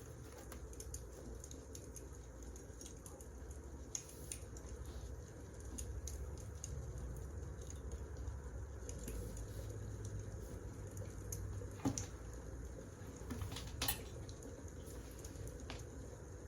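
Wood fire crackling: a steady low rumble with scattered small crackles and a few louder pops, around 4 seconds, 12 seconds and 14 seconds in.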